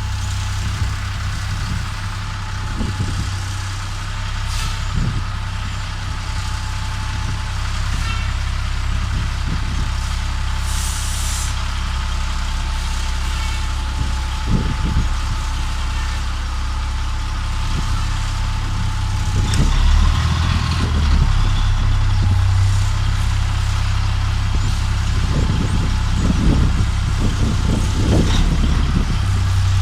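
Heavy truck's diesel engine running steadily, with a short hiss of air from the air brakes about eleven seconds in. The engine gets louder and its note changes about twenty seconds in.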